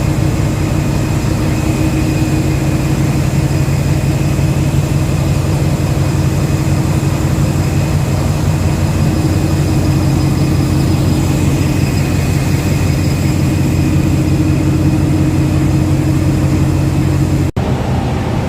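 Diesel locomotive engine running steadily, a loud low hum with a few steady high whines over it. The sound drops out suddenly and briefly near the end.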